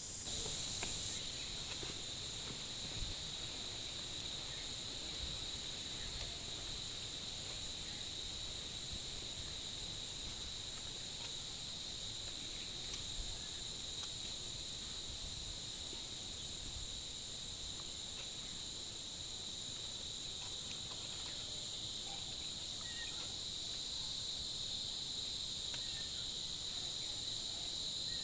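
Steady insect chorus, a continuous high-pitched shrill at two pitches.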